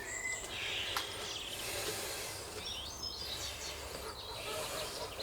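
Birds chirping in the background in short repeated calls, with a single sharp click about a second in.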